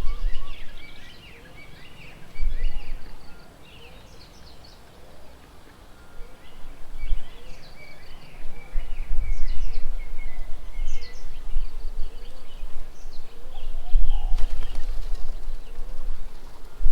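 Several small birds chirping and calling in short, overlapping notes, over irregular low rumbles of wind buffeting the microphone. There is a brief rustle about fourteen seconds in.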